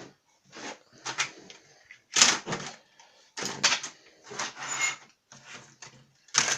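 Plastic clicks and knocks of OO gauge model railway coaches being handled and set back on the track, about a dozen irregular clacks of varying strength, the loudest about two seconds in and near the end.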